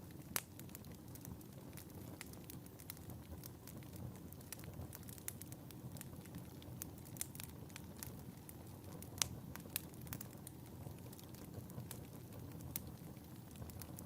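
Wood fire burning in a fireplace: a steady low rumble of flames with irregular sharp crackles and pops, the loudest pop about nine seconds in.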